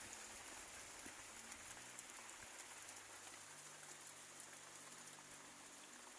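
Steady rain falling, heard as a faint, even hiss.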